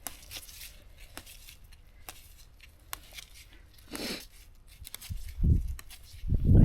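Faint rustling and small clicks of wild greens being handled, then low rumbling thumps near the end.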